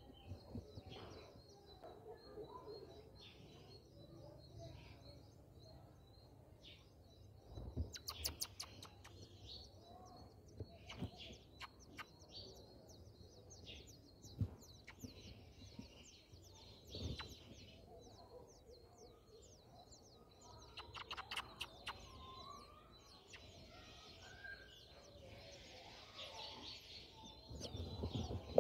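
Small birds chirping, with a quick run of rapid short chirps about eight seconds in and another past twenty seconds, and scattered single chirps between. A few soft knocks sound among them.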